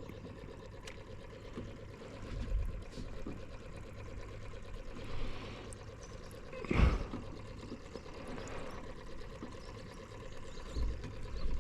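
Water trickling and splashing in a small boat, with a steady low hum, a few low knocks, and one brief louder splash-like sound near the middle.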